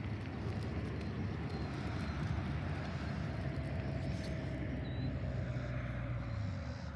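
A distant engine drones as it passes by, its pitch sliding slowly down, and it fades out near the end.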